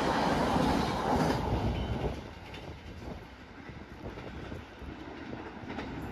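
Passenger train passing through a station at speed, its rumble falling away about two seconds in as it moves off, leaving a faint background.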